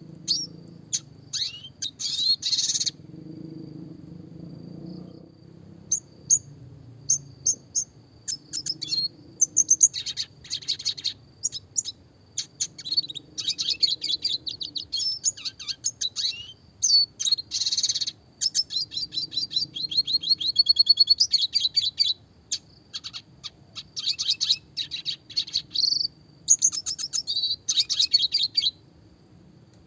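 Red siskin singing in bursts of rapid, high twittering chirps and trills separated by short pauses, with a fast rattling trill about twenty seconds in.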